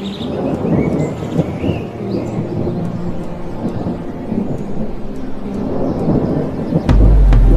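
Rolling thunder rumble, with a few bird chirps in the first couple of seconds. About seven seconds in, music with a deep bass beat comes in loudly.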